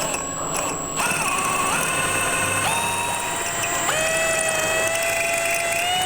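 Power drill boring a hole through the LED light's metal cooling plate. The motor's whine starts about a second in, after a brief blip, and drops in pitch in a couple of steps as the bit bites into the metal.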